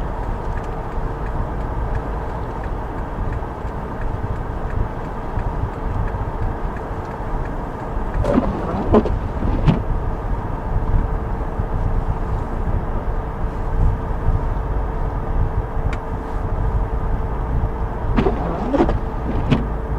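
Steady rumble of a vehicle cabin with a constant hum running under it, and two brief snatches of a voice-like sound, about halfway through and near the end.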